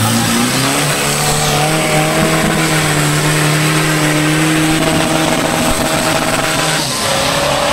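Off-road 4x4's engine at high revs, its pitch climbing in the first second or so and then held steady, letting off about seven seconds in.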